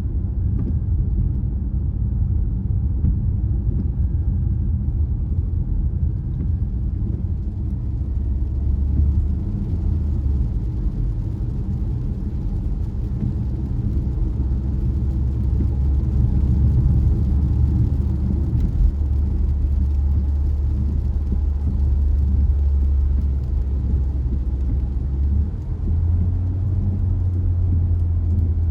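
Car driving along a road: a steady low drone of engine and tyre noise. Near the end the drone steps up slightly in pitch.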